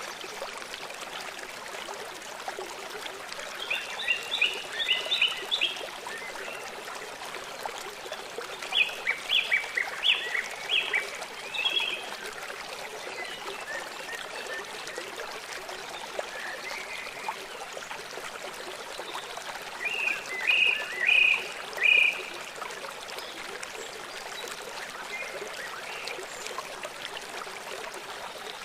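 A small songbird singing in three short bursts of quick repeated chirps, a few seconds in, around ten seconds in and a little past twenty seconds, over a steady rush of running water.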